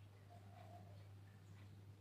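Near silence between coo phrases, with only a faint steady low hum.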